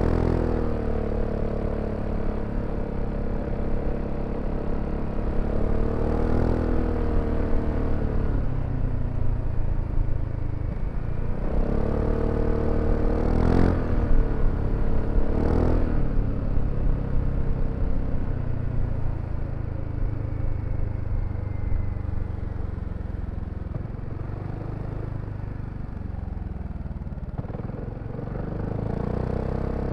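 BMW C400X scooter's single-cylinder engine running under way. Its pitch rises with several bursts of throttle, settles to a steady lower tone, then picks up again near the end.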